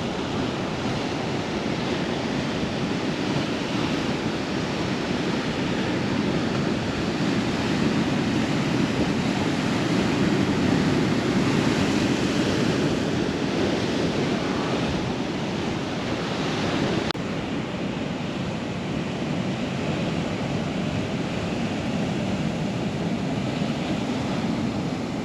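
Ocean surf washing and breaking against a rocky shore in a steady roar, with wind buffeting the microphone.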